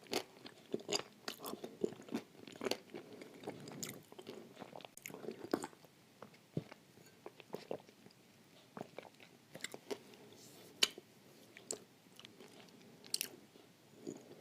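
A person biting and chewing pieces of dry edible clay coated in clay paste, with irregular crisp crunches and crackles over a soft, moist chewing sound.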